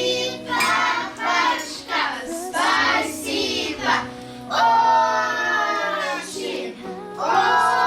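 A song with children's voices singing over a steady accompaniment, with one long held note about halfway through.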